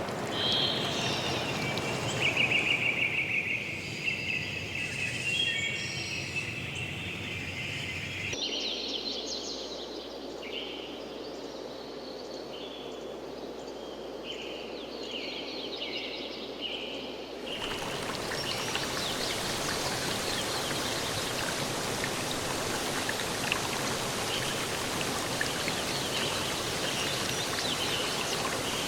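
Songbirds trilling and chirping over a steady rush of running water. The recording cuts abruptly twice: after about 8 seconds it changes to a quieter stretch of birdsong with little water, and a little past halfway the water rush comes back strongly with only faint chirps.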